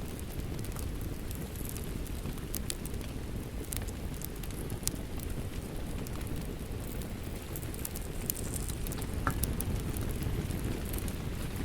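Ambience of steady rain with a wood fire crackling: a constant low rush under scattered sharp crackles and pops.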